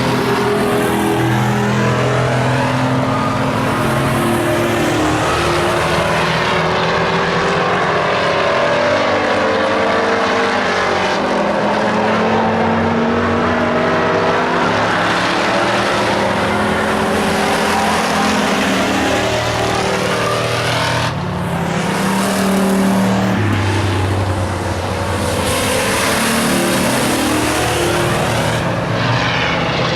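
Several stock race trucks' engines running hard around the oval, with overlapping engine notes rising and falling as trucks pass and rev through the laps.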